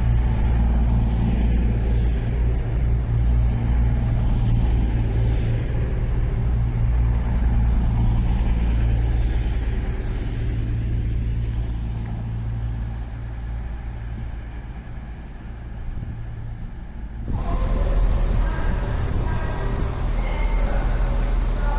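Class 221 Voyager diesel-electric multiple unit running into the platform, its underfloor diesel engines giving a steady low rumble. The rumble eases off, then the sound changes abruptly to a different low rumble about four-fifths of the way through.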